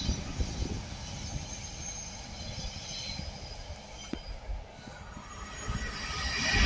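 Container wagons of a freight train rolling past on the far line: a steady running noise from the wheels, with faint high squealing tones. Near the end the sound rises sharply as a Class 390 Pendolino electric train approaches.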